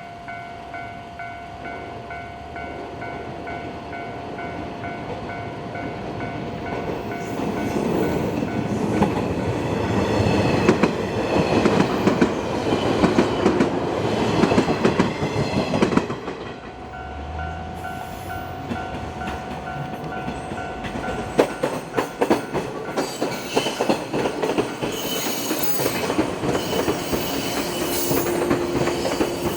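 JR West 115 series electric trains pass over a level crossing, their wheels clattering over the rail joints, while the crossing's warning bell rings with a steady repeated tone. The first train is loudest through the middle. After a short lull in which the bell is heard again, another train comes through with rapid wheel clicks and some high wheel squeal near the end.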